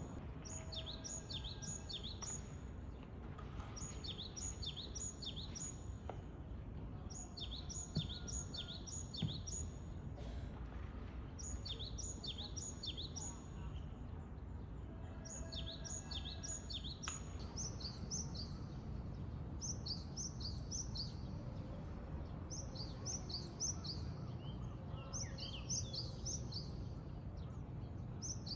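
Japanese tit singing: bouts of quick, high, repeated notes, each bout lasting a couple of seconds with short gaps between them. A steady low rumble runs underneath.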